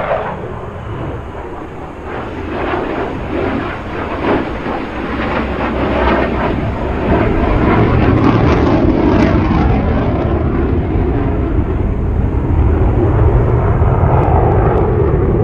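Car on the move: steady engine and road rumble that grows louder about halfway through as it picks up speed.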